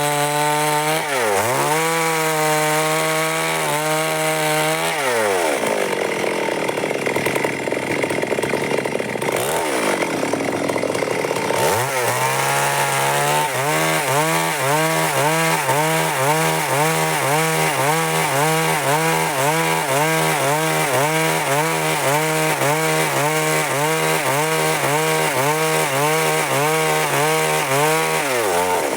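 Stihl MS 382 two-stroke chainsaw at high revs, cutting along timber. Its engine pitch dips and recovers a couple of times early on, the engine sound thins out for several seconds in the middle, then holds steady through a long cut from about halfway. Near the end the pitch drops as the throttle is let off.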